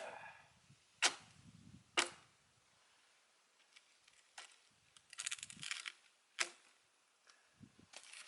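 Sharp blows struck on an oak log being split, three about a second apart near the start and one more later. A brief crackling comes before the last blow.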